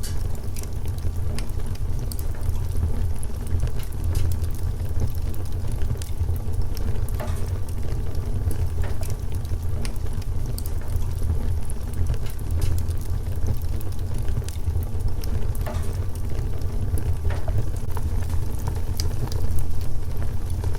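Wood fire crackling: a constant scatter of small crackles with a few sharper pops of burning wood, over a steady low rumble.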